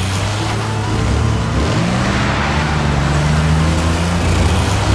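Monster truck engine sound effects: several engines running with a steady low drone over a rushing noise, one revving up in pitch about a second and a half in.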